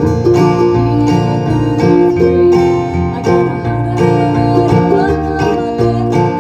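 String band playing an instrumental passage of a bluegrass-style song, with plucked banjo and acoustic guitar in a steady rhythm.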